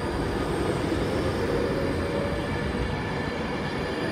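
Virgin Trains West Coast Class 390 Pendolino electric train pulling out of the platform, a steady rumble of wheels on rail with a faint whine from its traction equipment.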